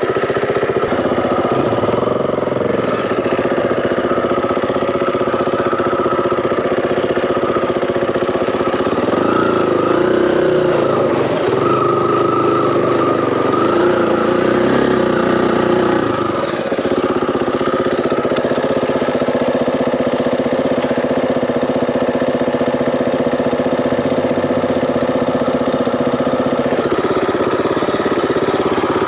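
KTM 350 EXC-F dirt bike's four-stroke single-cylinder engine running as it is ridden along a trail, its pitch rising and falling with the throttle. There is a short drop in level about sixteen seconds in.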